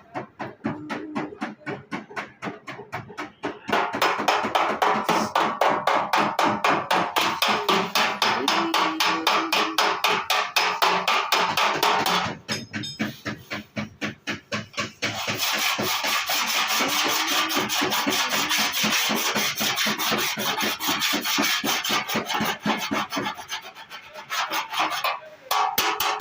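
Rapid back-and-forth strokes of hand filing or sanding on a car's body panel, about five strokes a second. They go lighter briefly in the middle and stop at the end.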